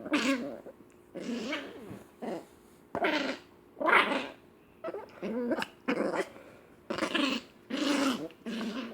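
Small Corkie dog (Cocker Spaniel–Yorkshire Terrier mix) growling in play, a string of short pitched growls about once a second that sound like Donald Duck.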